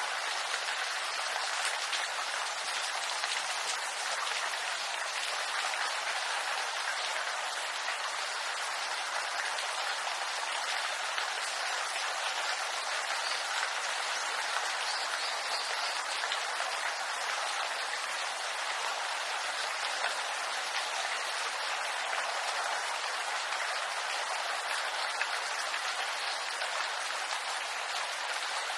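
Steady rain falling on a bamboo grove: a dense, even patter of drops with no pauses or changes.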